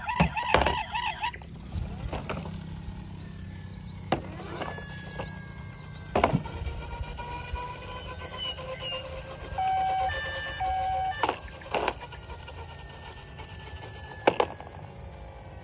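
A toy fire truck's electronic siren warbles and cuts off about a second in. Then come scattered clicks and knocks of plastic toy cars being handled, with a short run of electronic toy beeps a little past the middle.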